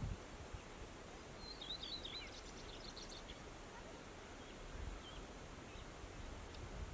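Whinchat singing: one short phrase of quick, varied high notes about a second and a half in, followed by a few faint single notes, over a low steady background rumble.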